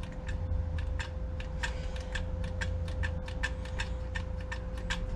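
Light, irregular metallic clicking, about four clicks a second, as the governor weights of a 12 hp Briggs & Stratton engine are worked by hand to check them, over a steady low hum.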